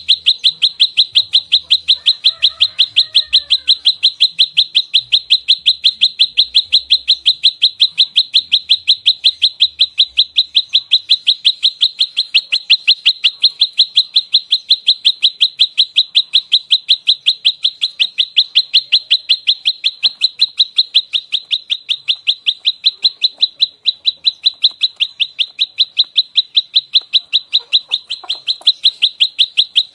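Prenjak lumut, a small songbird, giving its fighting call in rapid fire: an unbroken string of sharp, high chips, about six a second, with no pauses.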